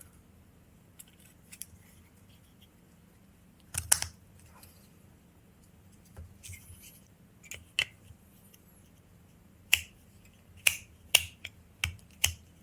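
Scattered sharp clicks and snaps of small parts being handled and fitted together as a motorcycle ignition switch is closed up, one about four seconds in and a quicker run of them near the end.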